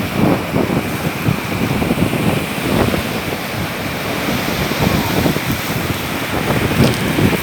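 Wind buffeting the microphone in irregular gusts over the steady wash of sea surf.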